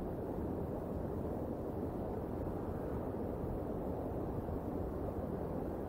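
Steady rain and wind noise at an outdoor nest-cam microphone: an even, low rushing with no calls or distinct drops.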